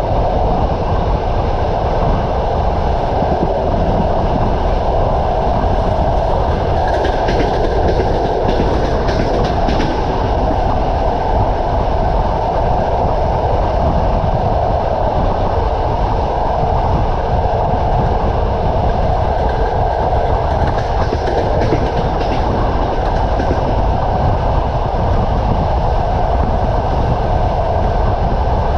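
Train running along the track, its wheels clacking over the rail joints above a steady rumble, with a run of sharper clacks about seven to ten seconds in.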